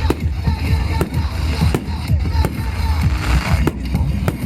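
Fireworks bursting in the air, bangs about twice a second over a continuous low rumble.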